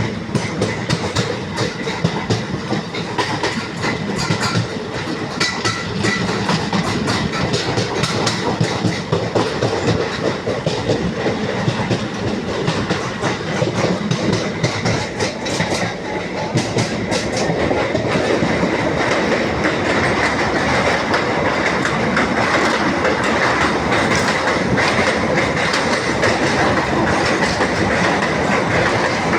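Train running over a railway bridge, its wheels clattering rhythmically over the rail joints. The clacking is sharper at first and merges into a steadier, slightly louder rumble about halfway through.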